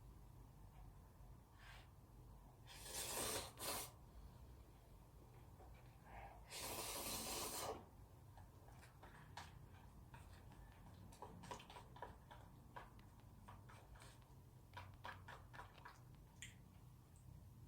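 Cup noodles being eaten: two quick noisy slurps, then one longer slurp, followed by a run of small faint clicks and smacks from eating.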